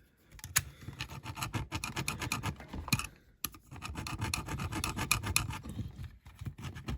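A hand file rasping back and forth in quick short strokes across the mushroomed head of a metal rivet, with brief pauses about three seconds in and again near six seconds. He is filing the rivet head flat so it can be drilled out to free the toy van's base.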